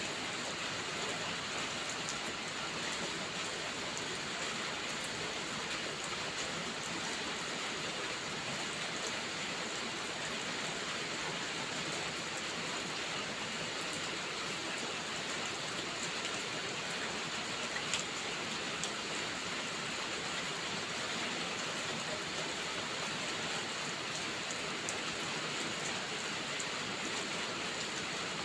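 Steady rain falling, with scattered small crackles from a wood fire in a fireplace and one sharper pop about two-thirds of the way through.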